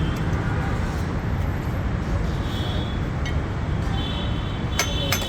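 Steady rumble of road traffic going by. Near the end, sharp metal hammer strikes begin, several in quick succession, each ringing briefly.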